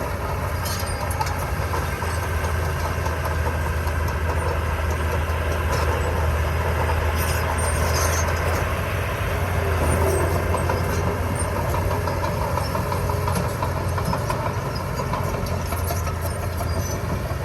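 Heavy-equipment diesel engine running steadily with a deep, even drone that swells a little near the middle, with a few light metallic clicks and clanks over it.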